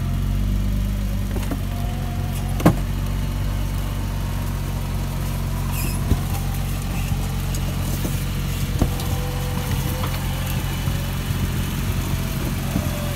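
Vehicle winch running steadily under load, hauling the stuck vehicle out through snow and ice with its engine idling underneath, with a few sharp knocks as the load shifts, the loudest about three seconds in.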